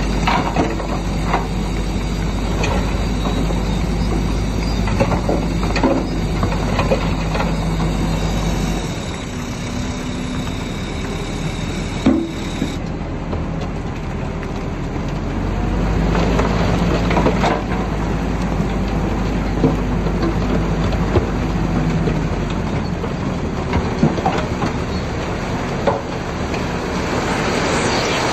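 Bulldozer diesel engine running with the clank of its steel tracks and scattered knocks of stone. The engine drone drops about nine seconds in and strengthens again a few seconds later.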